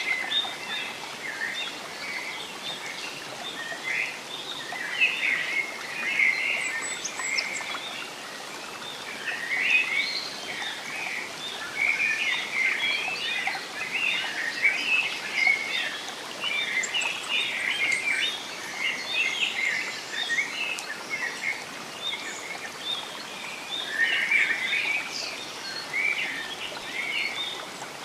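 Several songbirds chirping and calling at once over a steady background hiss, as of a stream or light rain. The chirps overlap without a break, with a few thin, high notes above them.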